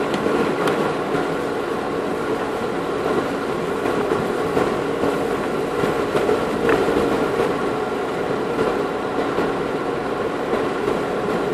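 Engine and drivetrain of an off-road 4x4 heard from inside the cabin, running steadily in low gear on a muddy track, with a constant drone and whine. Two light knocks come through, about a second in and near the middle.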